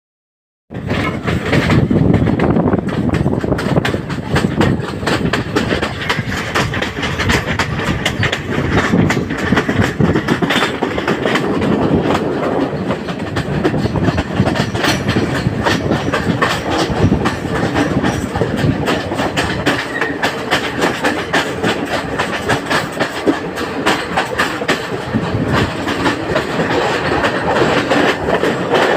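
A train running along the track, its wheels clattering steadily over the rails, starting abruptly just under a second in.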